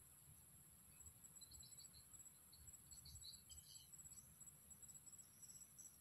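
Faint evening insect chorus: a steady high-pitched hum, joined about a second in by rapid cricket-like chirping pulses. Brief faint bird chirps come through in the middle, over a low rumble.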